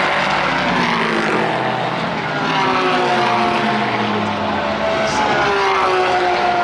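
Racing car engines running at speed on track. Several engine notes overlap, their pitch sliding slowly, mostly falling, as the cars pass and change speed.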